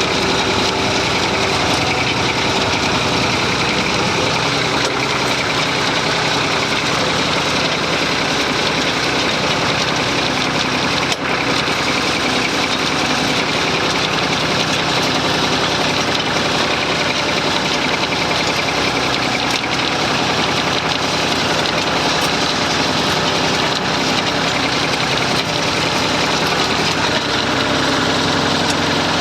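Massey Ferguson 35 tractor engine running steadily, with one brief click about eleven seconds in.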